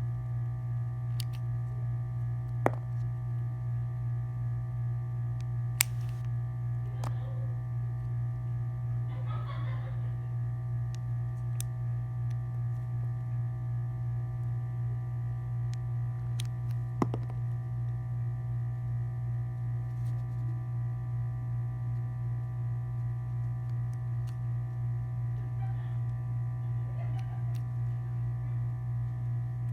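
A steady low electrical hum with several fainter steady tones above it, broken by three sharp clicks about 3, 6 and 17 seconds in.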